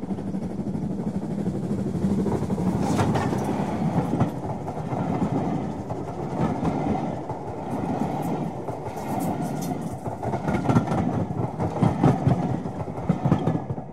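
Railway coaches rolling past: a steady rumble with irregular clicks of wheels over the rail joints, a little louder near the end.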